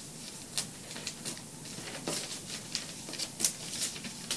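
Felt marker scratching and dabbing across newspaper laid on cardboard in short, irregular strokes, the loudest about three seconds in.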